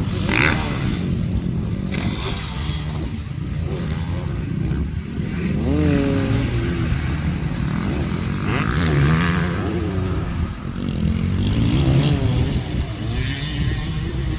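Motocross bike engines running on the track, revving up and down as the riders accelerate and shift, with rising pitch sweeps about 6, 9 and 12 seconds in.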